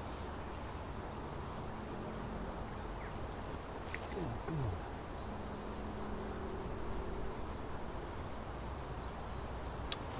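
A flying insect buzzing past the microphone in a few short passes, one dropping in pitch as it moves off, over a steady outdoor hiss with faint bird chirps.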